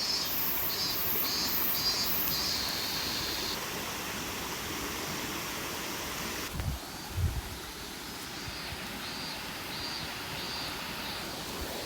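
Steady rush of flowing stream water, with a high chirping call repeated about twice a second near the start and again near the end. A couple of low thumps come about seven seconds in.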